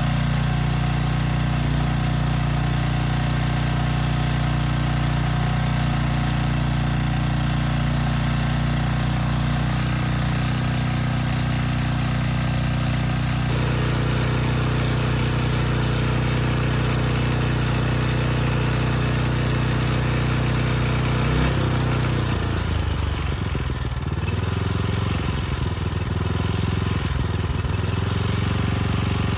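Briggs & Stratton 10 hp single-cylinder engine running a portable generator at steady speed; about three-quarters of the way through, its pitch starts to waver, dipping and recovering several times. A knock is in the running, which the owner believes is not the sheet-metal shrouds rattling.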